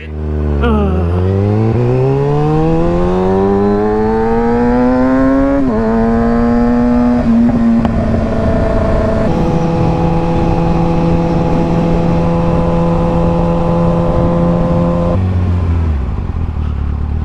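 Kawasaki ZX-6R's inline-four engine pulling away under throttle, heard from a helmet mic with wind noise. The note climbs steadily for about five seconds, drops at an upshift, steps down again at a second shift a few seconds later, then holds steady before falling away as the throttle closes near the end.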